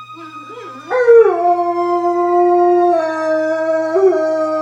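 Black Labrador howling in answer to fire truck sirens: one long howl starting about a second in, sliding down in pitch and then held steady, with a brief lift near the end.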